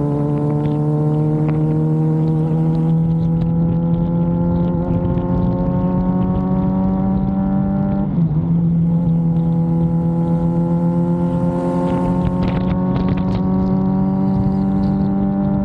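Suzuki GSX-R sportbike's inline-four engine pulling under light throttle, its note slowly rising through a gear. About halfway through it drops on an upshift, then climbs again and starts to fall near the end. Wind rushes over the microphone.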